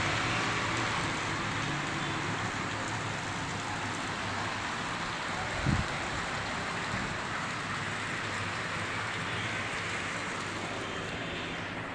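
Heavy rain falling in a steady downpour, with a single brief thump about halfway through.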